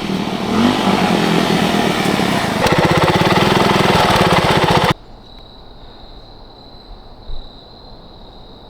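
Suzuki DR200's single-cylinder four-stroke engine running after a carburettor clean, its beat speeding up into a faster, even pulse about three seconds in. The sound cuts off abruptly about five seconds in, leaving a faint steady high whine.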